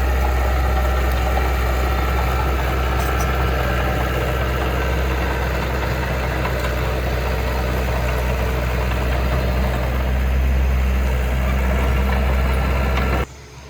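Heavy diesel engine of earthmoving equipment running steadily with a deep, even hum, then cutting off abruptly near the end.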